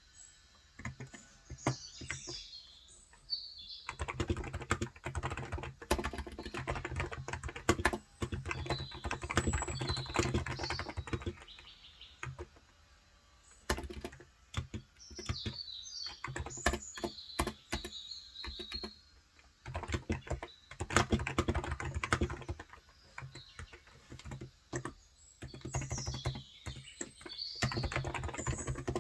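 Typing on a Cox Endeavour electrocapacitive (Topre-style) 35 g tenkeyless keyboard: quick runs of soft keystrokes broken by short pauses, starting about four seconds in. Birds chirp in the background several times.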